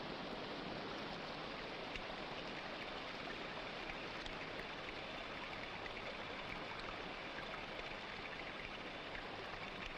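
Water rushing in a steady stream, an even unbroken sound.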